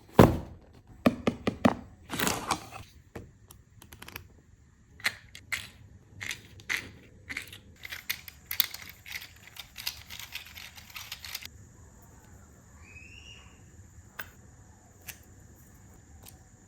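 Irregular clicks, knocks and short scraping noises from hard objects, dense for about the first eleven seconds, then mostly quiet with a few single clicks.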